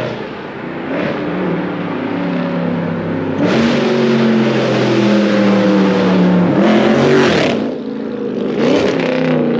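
A high-performance car's engine accelerating hard, with engine pitch rising and falling. It goes to a loud full-throttle run from about three and a half seconds in until about seven and a half seconds in, then gives one more short hard burst near the end.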